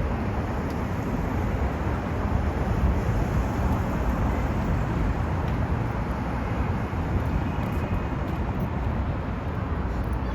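Steady downtown street noise: a low traffic rumble and general city hum with no distinct events.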